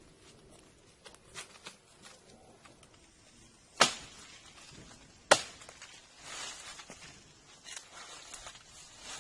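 Two sharp knocks about a second and a half apart, the loudest sounds here, amid light rustling and small clicks from handling materials.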